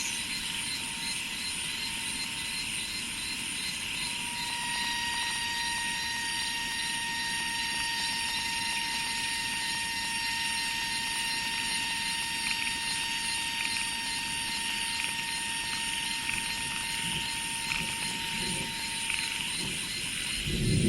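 Steady chorus of insects in rice fields, with several high, unbroken trills and pulsing chirps layered together. One buzzing tone gets louder about four seconds in and stops shortly before the end. A short low rumble comes right at the end.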